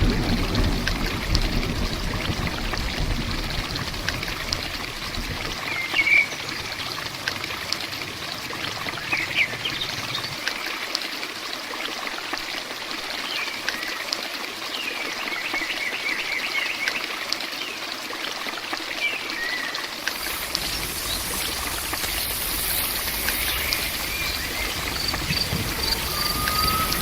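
Steady rush of rain and running water, with birds chirping briefly now and then. About twenty seconds in, a high, insect-like hiss joins.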